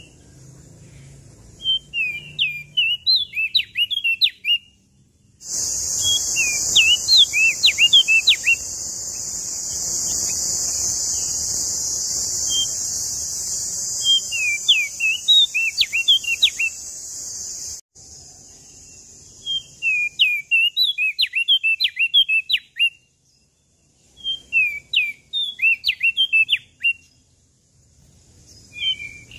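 Crested dark-eye (opior jambul) singing in quick bursts of high, sharply rising and falling whistled notes, about two to three seconds each, repeated six times with short pauses. A loud steady high hiss runs behind the song for the first half and stops suddenly.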